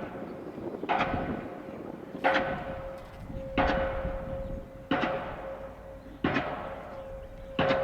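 Diesel pile hammer driving a steel H pile: six heavy blows, evenly spaced about 1.3 seconds apart. Each blow is a sharp clang, and the steel rings on after it with a steady tone.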